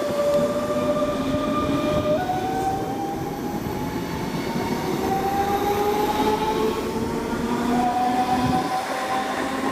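DB class 425 electric multiple unit accelerating: its traction converters give a whine of several tones that jumps up in pitch about two seconds in, then climbs steadily, over the rumble of the train running.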